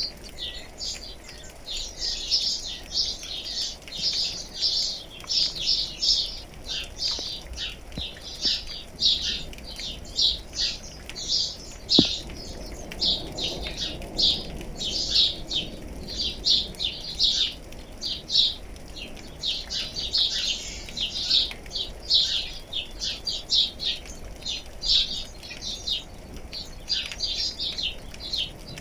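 Birds chirping continuously, a dense run of short, high chirps in quick succession, with a single sharp click about twelve seconds in.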